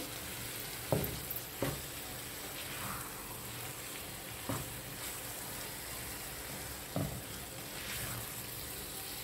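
Diced vegetables and grated tomato sizzling steadily in oil in a frying pan while a spatula stirs them, with four short knocks of the spatula against the pan.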